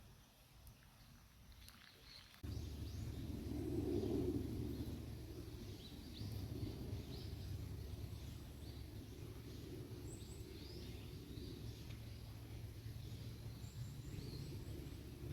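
Outdoor ambience: small birds chirping now and then, over a low steady rumble that comes in suddenly about two seconds in and stays.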